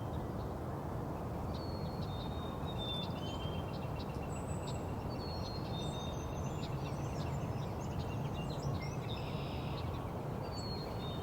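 Ruby-crowned kinglet singing high, thin whistled notes and quick runs of notes, among other songbirds, over a steady low background rumble.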